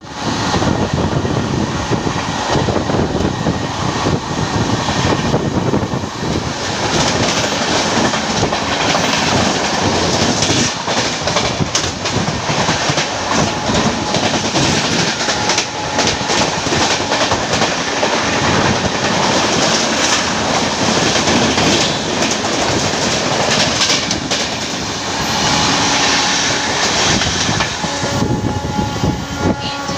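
Two passenger trains, a WAP-7 electric-hauled express and an electric local, running side by side at speed. A loud, steady rumble of wheels on rail carries a rapid clickety-clack of wheels over rail joints throughout.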